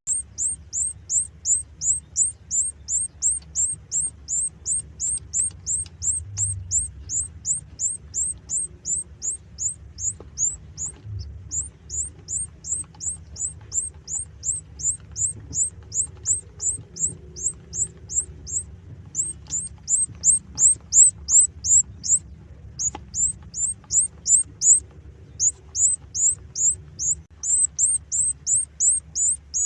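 Canary chick peeping steadily: short, high, falling chirps about two or three a second, with a few brief pauses, over the low steady hum of an egg incubator.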